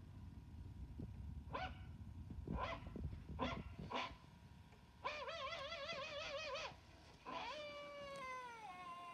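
Distant cartoon dog barking in the night: four short barks, then a wavering, warbling howl, then a long howl falling in pitch. This is a relayed barking alert.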